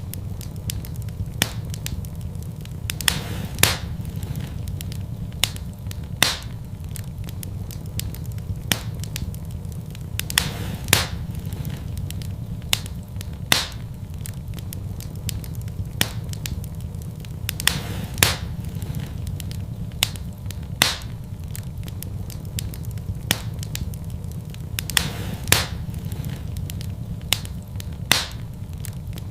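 Wood fire in a fireplace crackling: sharp pops at irregular intervals, a second or more apart, over a steady low rumble.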